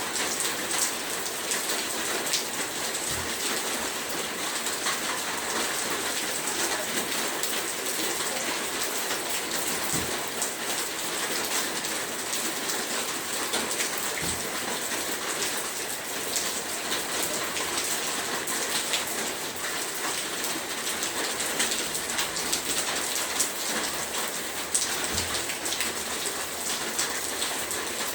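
Heavy rain falling steadily, a dense hiss with many close drop impacts and a few soft low thuds.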